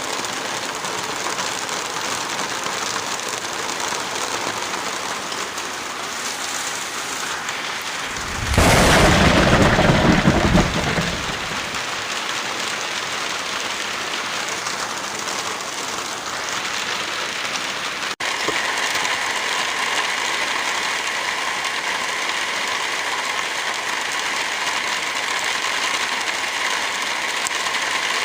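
Steady heavy rain falling. About eight seconds in, a much louder, deeper surge lasts about two seconds and then falls back. Around eighteen seconds a brief dropout cuts in, and the rain goes on with a slightly changed tone.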